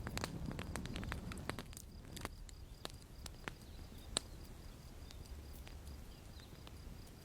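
Campfire crackling: irregular sharp pops and snaps over a low rumble, busiest in the first couple of seconds, with one louder pop about four seconds in.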